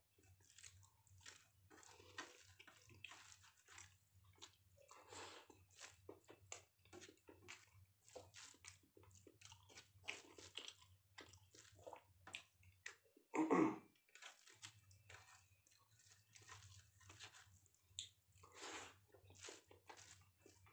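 Faint chewing and mouth sounds of a person eating rice with dal and fried onion stalks by hand: a run of soft, irregular wet chews and small crunches over a low steady hum, with one louder short mouth sound about halfway through.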